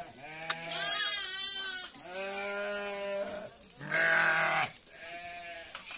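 Sheep bleating: about five long calls in a row, some overlapping and some with a wavering quaver.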